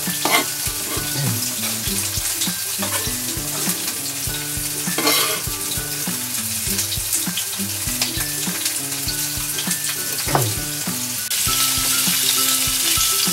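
Knife chopping blanched broccoli finely on a cutting board, with a few sharp taps over a steady frying sizzle. About 11 seconds in, the sizzle grows louder: Spanish mackerel (sawara) fillets pan-frying skin-side down.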